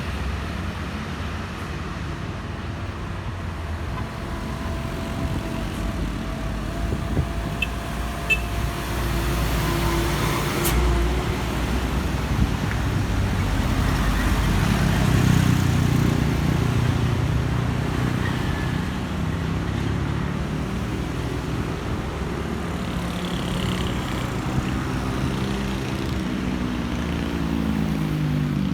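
Diesel engines of an excavator and dump trucks running steadily in a continuous low rumble, with a few sharp knocks about a third of the way in.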